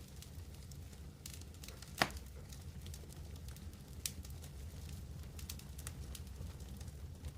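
Campfire crackling, with scattered small snaps and a sharp pop about two seconds in, over a steady low rumble.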